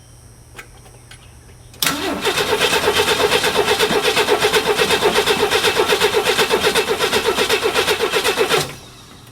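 Ford 300 cubic-inch inline-six being cranked on its starter: it starts about two seconds in with an even, rapid chug at a steady pace and stops abruptly near the end, without catching or revving up. The engine does not start here, with its throttle linkage left disconnected after the rebuild.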